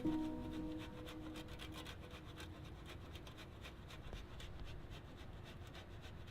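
Parmesan cheese being grated in a quick run of short, even rasping strokes, several a second.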